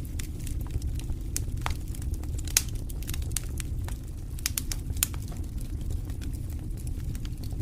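Wood campfire crackling, with irregular sharp pops, the loudest about two and a half seconds in and again near five seconds, over a steady low rumble.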